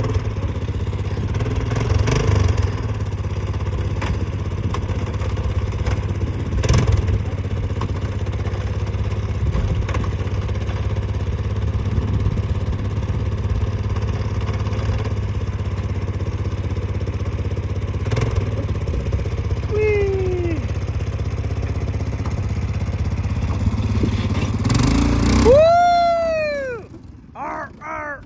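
ATV engine running steadily with a few clunks, then shut off near the end.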